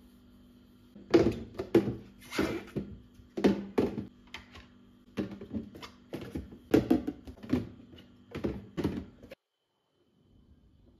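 A string of irregular thunks, knocks and rustles of items and packaging being handled while a parcel is unpacked. The sound cuts off suddenly about nine seconds in.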